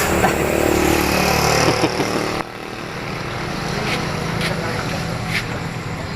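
A motor vehicle engine running close by, a steady noisy hum, cuts off abruptly about two and a half seconds in. A softer steady street noise with a few faint clicks follows.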